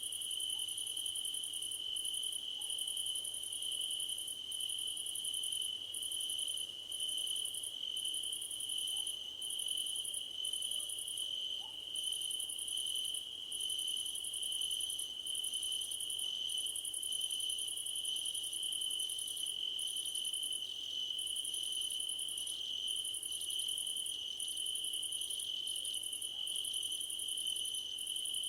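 A chorus of crickets singing in a grassy field: one steady, unbroken trill, with a higher-pitched insect song over it that comes in phrases about a second long with short breaks.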